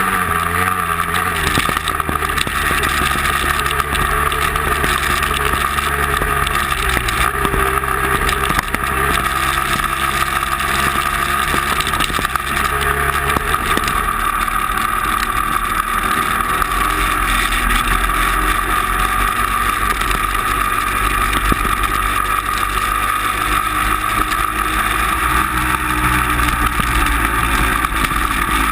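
Motor vehicle engine running steadily under way, with a constant high whine over the engine drone.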